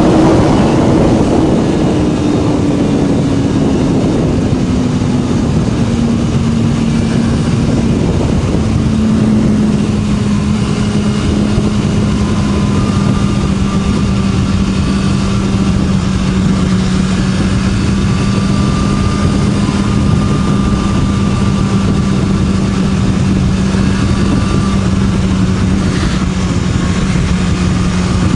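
BMW S1000RR inline-four with an Akrapovic slip-on exhaust running under way at a steady cruise. Its pitch eases down over the first several seconds, then holds level, with a steady rush of wind noise underneath.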